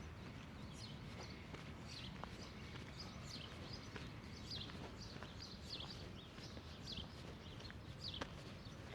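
Small birds chirping: many short, quick, high chirps that sweep downward, coming in irregular runs. Underneath is a low, steady background rumble.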